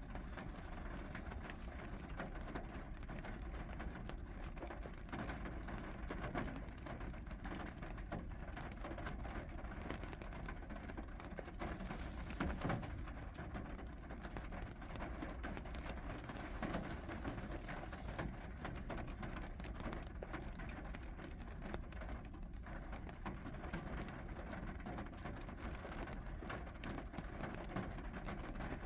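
Steady rainfall, with many small drop hits ticking through it and a slightly louder spell about halfway through.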